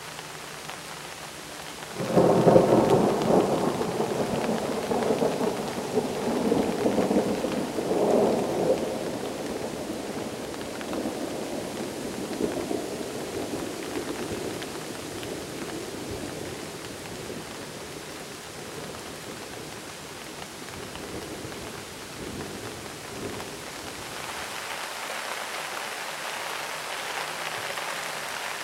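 Steady rain, with a rumble of thunder breaking in about two seconds in and rolling away in several swells over the next ten seconds or so.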